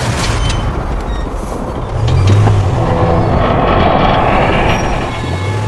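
Heavy railway carriages starting to roll under tow: clanks from the couplings as they take up the strain near the start, then metallic rail and wheel noise. Two deep low booms sound beneath, about two seconds in and near the end.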